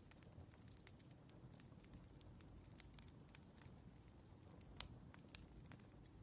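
Faint crackling of a wood fire: irregular sharp snaps and pops over a low rumble, with two louder pops about five seconds in.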